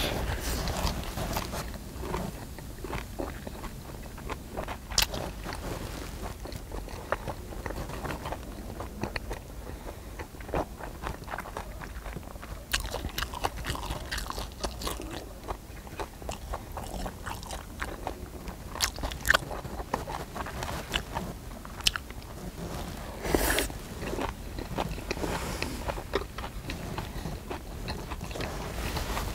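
Close-miked chewing and biting of mouthfuls of spicy stir-fried pork wrapped in leaves, with many short sharp clicks scattered throughout and a louder burst of eating noise about 23 seconds in.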